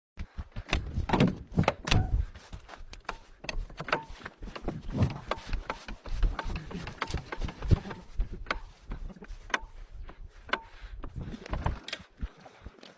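A series of irregular knocks and clunks, some with a deep thump, coming every fraction of a second.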